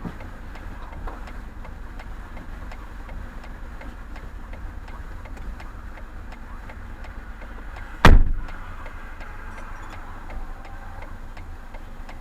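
A single loud bang about eight seconds in as a pickup truck rear-ends a stopped smart car, heard from inside the car. Before it and after it there is a steady low vehicle rumble with faint regular ticking.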